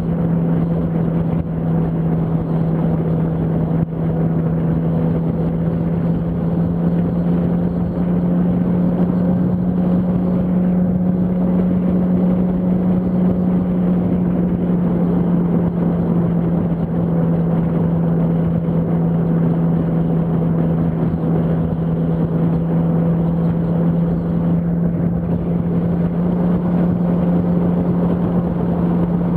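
Yamaha R1's inline-four engine running at a steady freeway cruising speed, one constant pitch with no revving, over a steady rush of wind and road noise.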